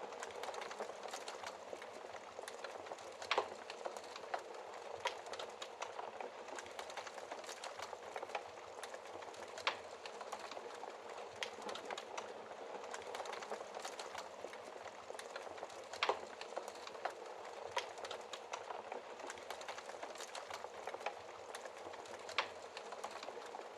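Wood fire burning in a fireplace: a steady hiss with constant small crackles and a few louder pops, the loudest about 3, 10, 16 and 22 seconds in.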